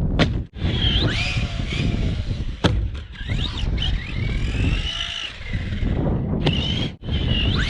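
An Arrma Typhon 3S BLX 1/8 RC buggy running on a Hobbywing 4000kV brushless motor. The motor's high whine rises and falls with the throttle over the rumble of the drivetrain and tyres. Sharp knocks of the buggy hitting or landing come several times, one loud one about two and a half seconds in.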